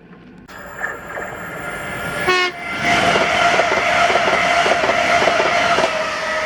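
TransPennine Express Class 397 electric multiple unit rushing past at speed, swelling from about half a second in, with wheels clicking over the rail joints and a steady high tone over the noise of the passing train.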